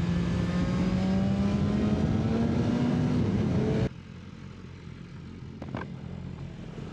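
BMW S1000RR inline-four engine pulling in gear, its note rising steadily under wind rush. About four seconds in, the sound drops abruptly to a quieter, steady engine hum.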